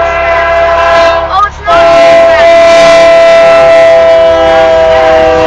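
Union Pacific diesel locomotive air horn sounding a loud, steady multi-note chord, broken off briefly about a second and a half in and then held again as a second long blast.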